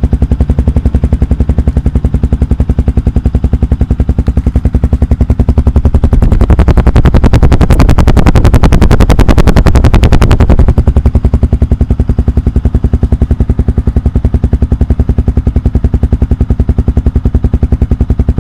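Yamaha WR 155's single-cylinder four-stroke engine running through a GP7 full-system aftermarket exhaust, idling with an even train of exhaust pulses. About six seconds in it is revved and held for about four seconds, louder and sharper, then drops back to idle.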